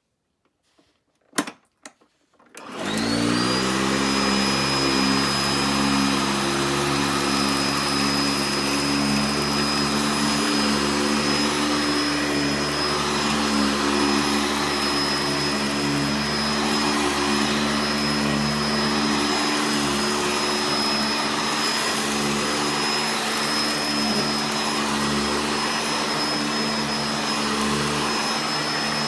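A couple of short clicks, then an upright vacuum cleaner switches on about two and a half seconds in. Its motor spins up and then runs steadily with a high whine.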